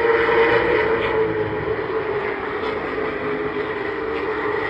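A pack of late model stock cars racing on a short oval track. Their V8 engines run at high revs in a steady, loud note.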